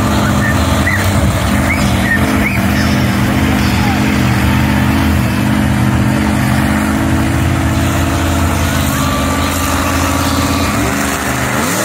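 Monster truck engine running steadily, with a brief rev near the end.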